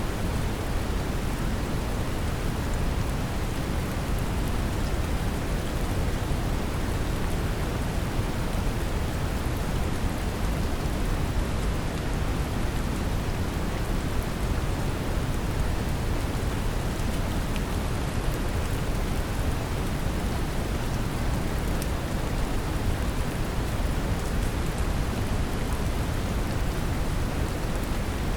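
Brown noise, a deep steady rumble, mixed with a gentle rain track; a few faint drop ticks patter through the hiss.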